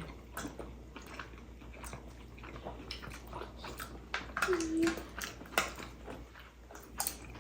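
Eating momos at a table: scattered light clicks and taps of utensils against dishes with soft chewing, and a brief hum about four and a half seconds in.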